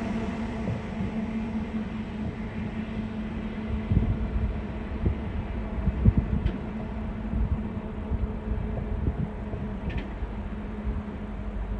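Steady low vehicle rumble with a constant hum and a few irregular low thumps.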